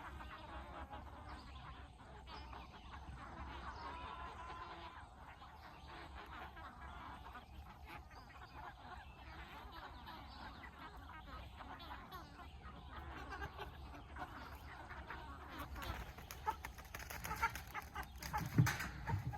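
Chickens clucking faintly, with a few knocks near the end.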